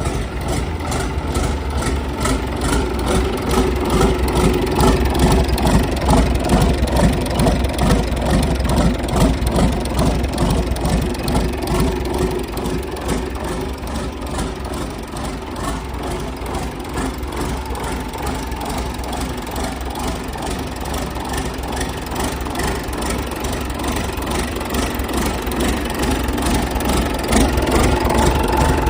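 Isuzu UM6BG1TC marine inboard engine, a turbocharged six-cylinder diesel, running steadily at low speed, getting a little louder near the end.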